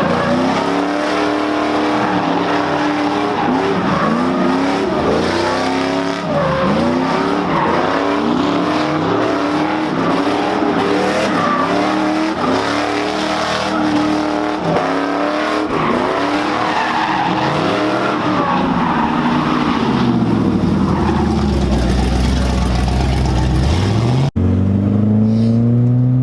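Car engine revving up and down over and over, with tyres squealing, as a car is drifted or spun in donuts. Near the end the engine note drops low, then the sound cuts off abruptly and a new stretch of revving starts.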